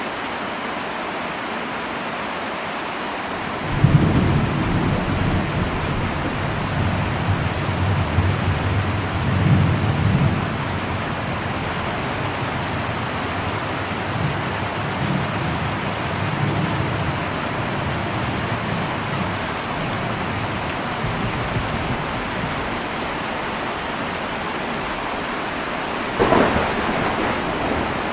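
Heavy rain falling steadily on an old metal roof, a constant hiss. About four seconds in, thunder rumbles in suddenly and rolls for several seconds before dying away. Near the end comes a sharper thunderclap.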